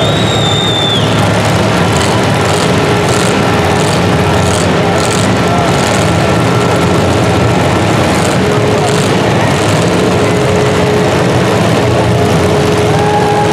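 Loud, steady engine noise from a competition vehicle running, with a voice partly heard under it.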